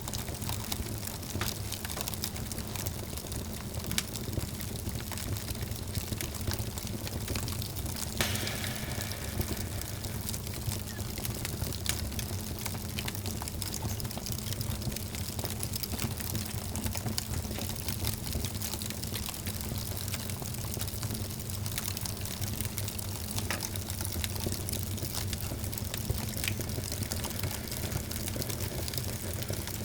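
Wood fire in a fireplace crackling, with frequent sharp pops over a steady low rumble, and a louder pop about eight seconds in.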